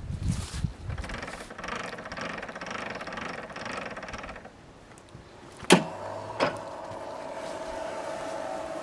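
Electric drive motor of a homemade profile bender running with a gear whine, then stopping about four and a half seconds in. Two sharp clicks follow a little over a second apart, and the motor starts again with a steady hum.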